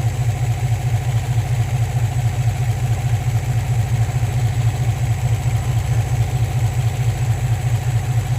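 2003 Infiniti G35's 3.5-litre V6 idling rough with a steady, slightly uneven beat. It misfires at idle, which the mechanic thinks may come from a skewed mass airflow sensor or a needed relearn.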